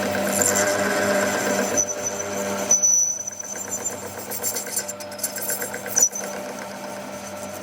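A shop machine running with a steady hum and a fast rhythmic chatter. It drops noticeably quieter about three seconds in, and there is a single sharp clack near six seconds.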